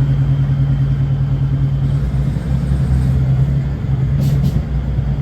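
A Northern passenger train pulling away, heard from inside the carriage: a loud, steady low drone of the train's power unit and running gear.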